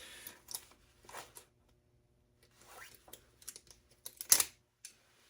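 Hands working over a desktop computer's metal parts: scattered small clicks, scrapes and rustles, with one sharper clack just after four seconds in.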